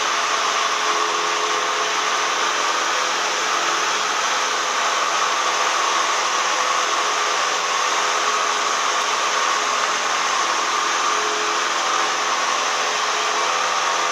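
Cessna 172M cabin noise: the steady drone of the four-cylinder Lycoming engine and propeller mixed with the rush of air, unchanging throughout.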